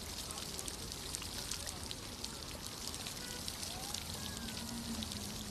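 Running water splashing and trickling steadily, with many small droplet splashes.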